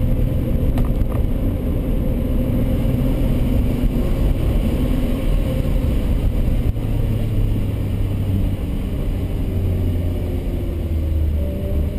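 Nissan GT-R's twin-turbo V6 running on track, heard from inside the cabin as a steady low drone whose pitch drifts slowly down, then up again near the end.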